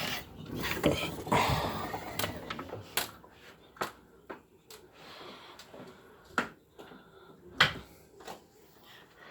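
Rustling, then scattered sharp knocks and clicks, about half a dozen, spread unevenly.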